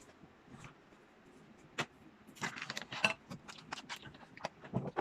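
Clicks and rattles from handling a vlogging tripod's plastic phone holder: one sharp click, then from about two seconds in a quick run of small clicks and rattles.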